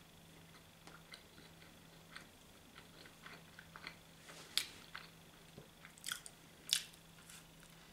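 A person chewing a mouthful of mushroom and cheese pizza with the mouth closed: soft irregular mouth clicks and smacks, with a few louder sharp ones in the second half.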